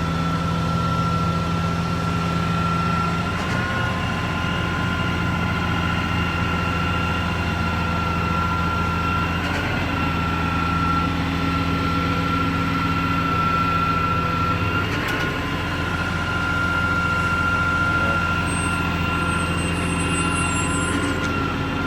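Garbage truck's diesel engine running steadily, a low drone with a steady high whine above it.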